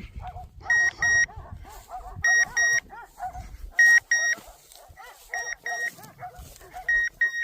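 Electronic hunting-dog collar beeping in double beeps about every second and a half, five times, while dogs bark and yelp in the background.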